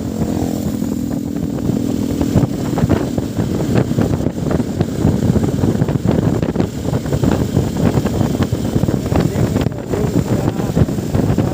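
Motorcycle engine running while riding, nearly buried under heavy wind buffeting on the microphone.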